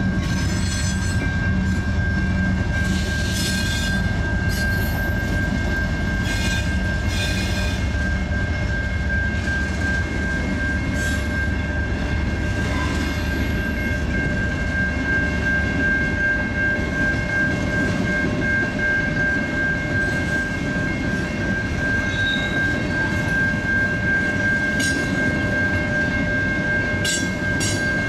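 A long freight train of covered hoppers and tank cars rolling past at a steady speed, its wheels rumbling and clattering over rail joints, loudest between about three and eight seconds in and again near the end. A steady high-pitched ringing tone sounds throughout.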